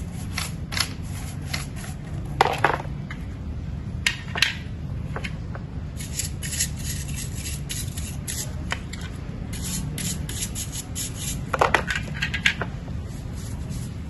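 Vacuum cleaner parts and attachments clicking, knocking and clattering as they are handled and brushed clean of leftover dust, with two busier bursts of clatter, over a steady low hum.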